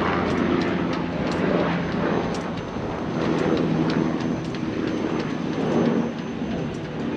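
A steady low mechanical drone with a few steady pitches, with many light ticks and clicks over it.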